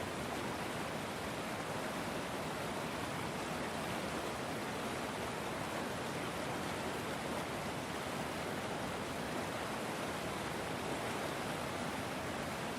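River water flowing: a steady, even rush with no separate splashes or changes.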